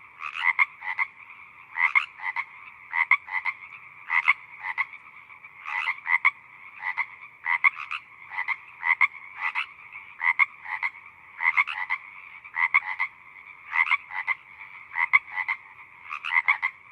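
A chorus of frogs croaking: short repeated calls, often in quick groups, over a steady background of many calling frogs.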